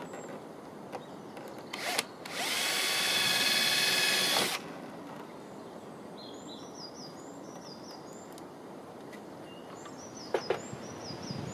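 Power drill run once for about two seconds, whining up to speed and holding steady, preceded by a couple of clicks. Birds chirp afterwards, and there are two sharp knocks near the end.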